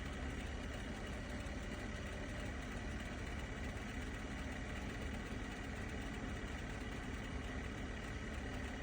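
Steady engine sound from a 2005 Ford 6.0 Powerstroke turbo-diesel V8 during a 15 °F cold-start attempt that ends in a no-start.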